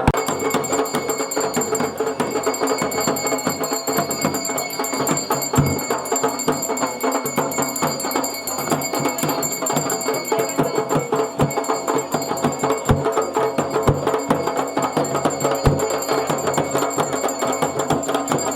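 Traditional Garhwali dhol and damau drums playing a continuous rhythm.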